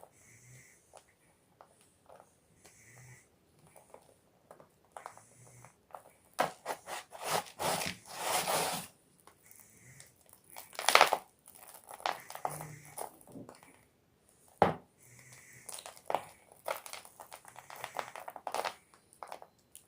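Gym chalk block crunching and crumbling in a series of crackly clicks, with a dense loud run of crunching from about six to nine seconds in and sharp single cracks near eleven and fourteen and a half seconds.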